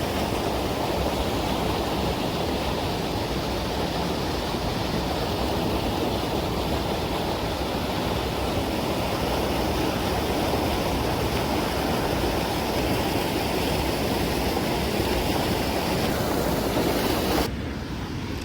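Steady rush of flowing water, loudest in the low and middle range, dropping sharply near the end.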